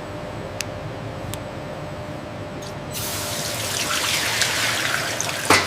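Liquid running and splashing in a steady rushing hiss, which grows louder and brighter about three seconds in. A sharp knock comes near the end.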